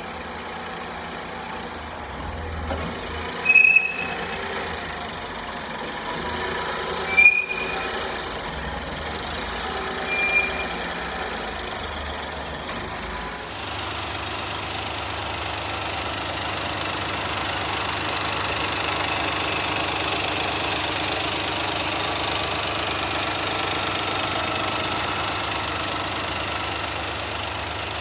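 Honda Acty mini truck's engine running steadily, its low note changing about halfway through and holding steady after. Three short, high-pitched squeaks sound over it in the first ten seconds.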